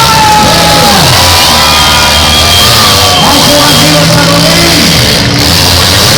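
Loud, distorted jumble of music over a loudspeaker, crowd shouting, and demolition-derby car engines revving up and down.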